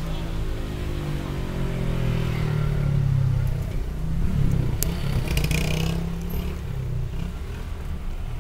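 Engine of a car in slow traffic running close by, a low steady rumble whose pitch drifts a little, with a brief rattle about five seconds in.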